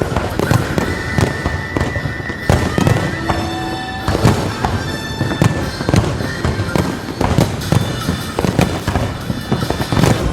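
Fireworks bursting and crackling in rapid, dense succession throughout, with music and a few held tones playing underneath.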